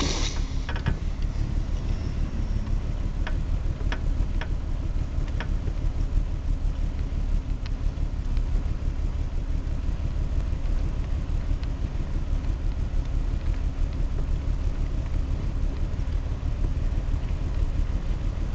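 Steady low rumble of wind buffeting the microphone, with a short hiss at the very start and a few faint sharp clicks a few seconds in.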